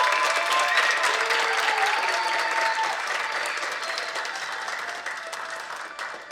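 Concert audience applauding and cheering at the end of a song, with high voices whooping over the clapping in the first few seconds, the applause slowly dying down.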